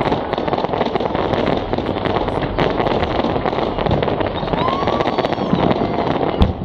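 Aerial fireworks display: a dense, steady crackle of many small bursts and pops, with one sharper bang shortly before the end.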